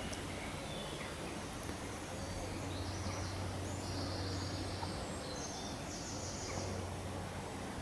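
A songbird singing a few high, rapid trilled phrases in the middle, over steady outdoor background noise with a low hum.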